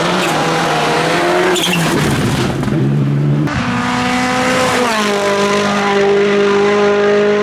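A rally car's engine running hard on the stage, its pitch stepping down and up with gear changes and lifts, then held steady for the last couple of seconds.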